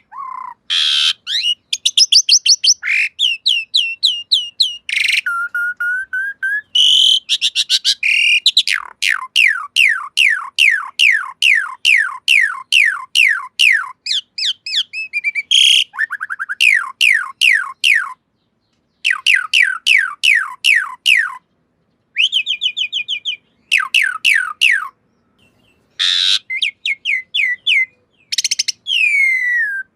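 Javan pied starling (jalak suren) singing: runs of rapid, steeply falling whistled notes, about four or five a second, broken by short pauses and a few harsher notes.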